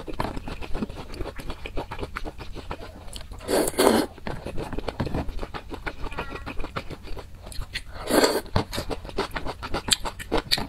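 Close-miked eating sounds: wet chewing and mouth clicks as soft food from a spicy broth is eaten. There are two louder, longer bursts, about four seconds in and again about eight seconds in.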